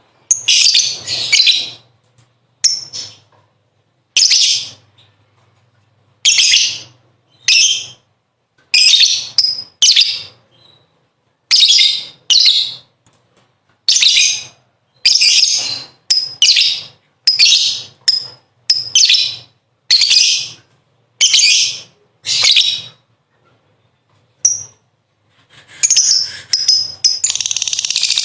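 Pet lovebird chattering in shrill bursts, each under a second long and about one a second with short gaps. Near the end it runs into a long unbroken chatter, the 'ngekek' song that breeders use for training other birds.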